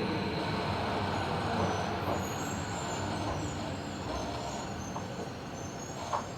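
Interior running noise of a Tobu 70000 series subway train: a steady rumble that slowly dies down as the train slows, with faint high squeals and a short knock near the end.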